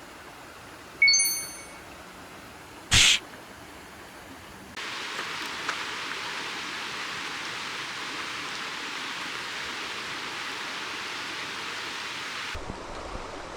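A short ringing ding about a second in and a sharp click about two seconds later, then a steady high hiss of food sizzling in a frying pan over a campfire, which starts abruptly about five seconds in and stops just before the end.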